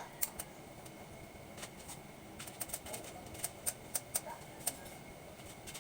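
Irregular light metallic clicks and taps of hand tools working on gas hose fittings, more frequent after about two and a half seconds, with faint dove cooing in the background.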